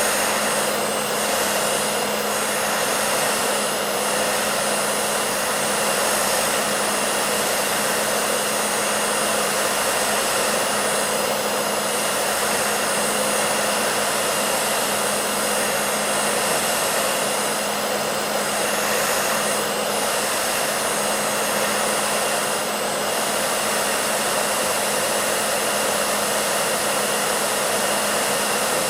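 Hair dryer running steadily: a continuous, unchanging rush of blown air over a low steady motor hum.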